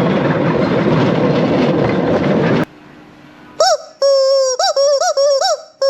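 Rushing wind and motor noise of an open vehicle on the move, cut off abruptly about two and a half seconds in. About a second later comes a run of high, wavering pitched notes with sharp breaks between them, like an outro sound effect.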